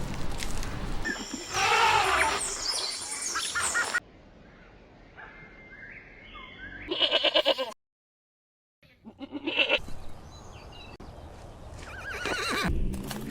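Farm animals bleating: several separate wavering calls in spliced-together clips, with abrupt cuts and a brief silent gap a little past the middle.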